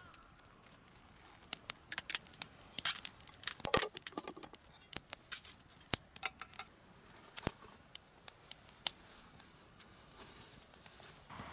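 Irregular sharp clicks and light taps, thickest in the first few seconds and scattered after.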